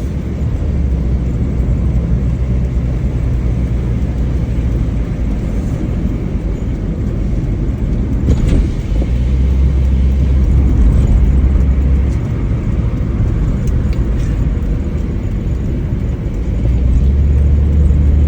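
Mitsubishi Lancer on the move, heard from inside: a steady engine and road rumble. The low rumble swells for a few seconds about halfway through and again near the end.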